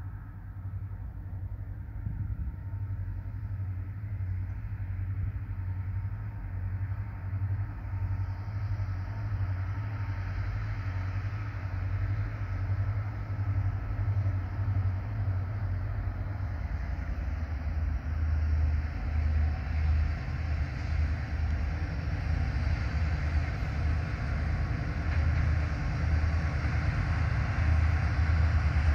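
Approaching goods train led by two locomotives: a low engine drone under a wash of running noise, growing steadily louder as it nears. Its low tone steps down slightly a little past halfway.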